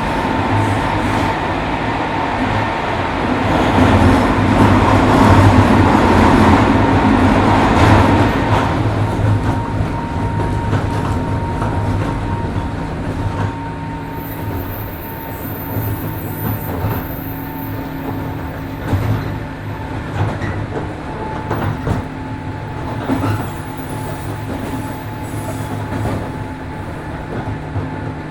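103 series 1500-subseries electric train running: a steady rumble of wheels and running gear, louder for a few seconds near the start and then easing off, with occasional short clicks from the rails.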